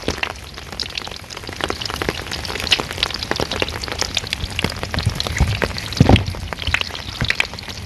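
Rain-soaked styrofoam-core surf board giving off a dense, irregular crackling, a snap, crackle, pop like food frying in a skillet, mixed with rain pattering. A heavier thump comes about six seconds in.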